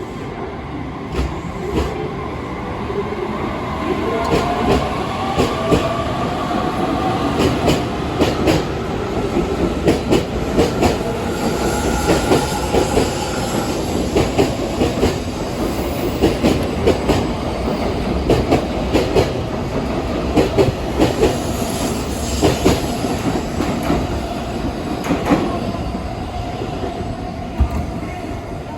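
Shinkansen bullet train running on the rails: a steady rumble with many sharp clicks, and a pitched whine that rises during the first several seconds.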